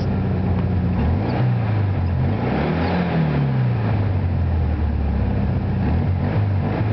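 1973 Volkswagen Super Beetle's rebuilt 1600cc air-cooled flat-four running with a pretty loud exhaust, shortly after a cold start. About a second in, the revs climb slowly, then drop back to idle, and they start to rise again near the end.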